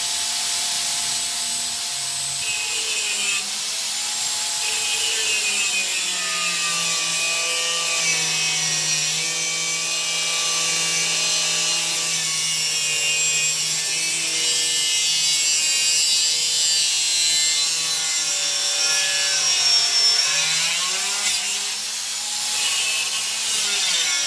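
Angle grinder with an abrasive cut-off disc cutting through steel: a steady motor whine with a harsh hiss from the disc. About twenty seconds in, the motor's pitch sags under load and then picks back up.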